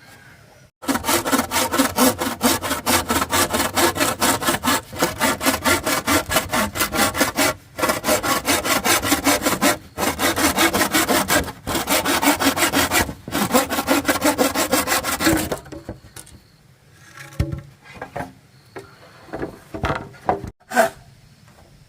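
Hand saw cutting through bamboo in quick back-and-forth strokes, pausing briefly a few times, then stopping about three quarters of the way through. Scattered light knocks follow as the pieces are handled, with one sharper knock near the end.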